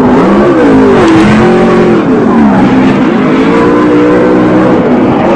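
An engine revving loudly, its pitch rising and falling several times.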